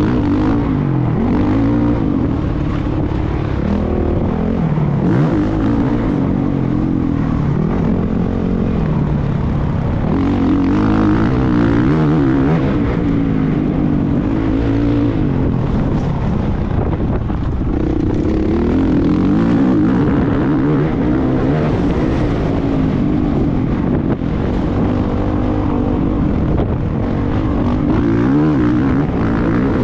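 Motocross motorcycle engine running hard for the whole stretch, its pitch rising and falling again and again as it revs up and eases off.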